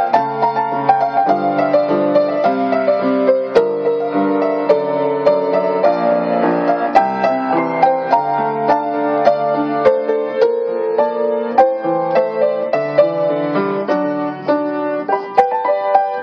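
A solo piano playing a gentle ballad, with melody over sustained chords and many notes overlapping as they ring and decay.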